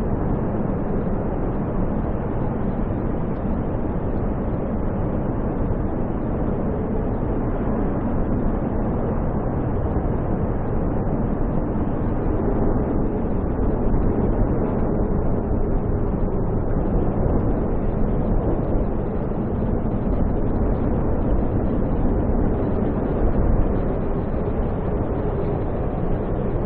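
Snowstorm wind roaring steadily, a deep, even rush that swells slightly now and then.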